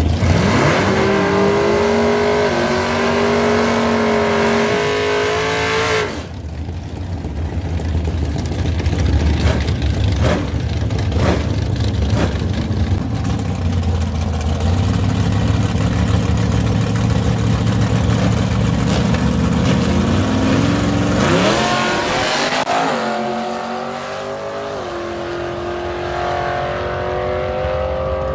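Drag-racing car engines launching at full throttle, the pitch climbing and stepping with gear changes over the first few seconds. After an abrupt cut, a race car's engine rumbles loudly for about a dozen seconds, revs up sharply, and pulls away with its pitch rising.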